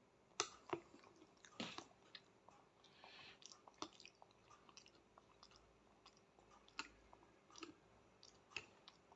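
A small child eating pasta: faint chewing with scattered sharp clicks, the loudest about half a second in and again near two seconds.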